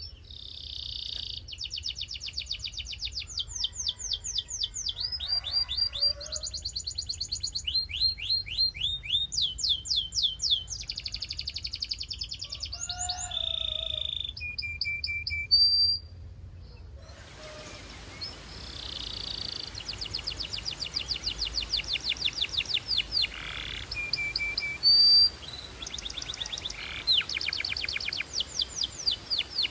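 Belgian canary singing in fast trills of rapidly repeated high notes, with a brief pause a little past halfway before the song resumes.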